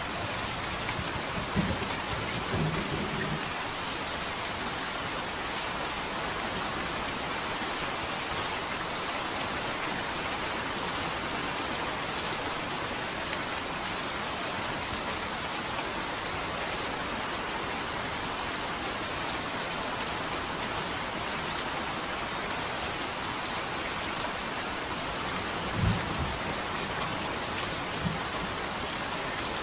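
Steady rain falling, with a few short, low rumbles of thunder near the start and again near the end.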